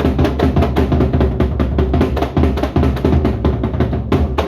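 Gendang beleq percussion ensemble (large Sasak barrel drums with cymbals and gongs) playing a fast, dense rhythm, which stops abruptly near the end.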